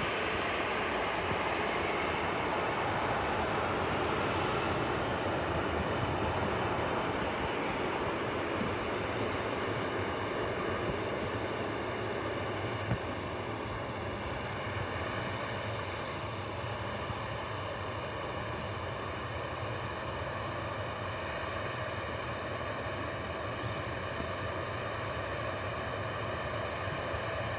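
Airliner engines running, a continuous noise with steady tones layered through it, easing slightly in the second half.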